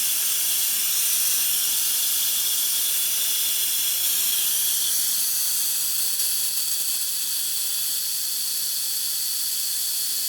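Vacuum brake bleeder hissing steadily as it draws brake fluid out of the motorcycle's caliper through the loosened bleed screw. Its tone changes slightly about four seconds in.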